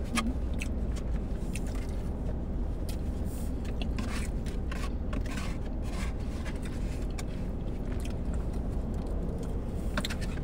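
Close-up chewing and mouth smacking of wet burrito, with many small scattered clicks and scrapes from plastic utensils in a foam takeout container, over a steady low hum.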